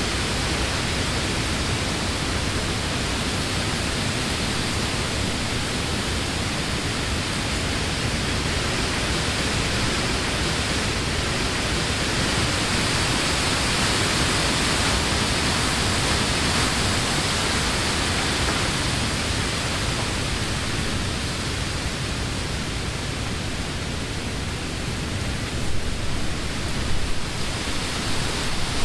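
Wind blowing through leafy summer trees: a steady rushing hiss of leaves that swells about halfway through and eases again, with a few brief louder gusts near the end.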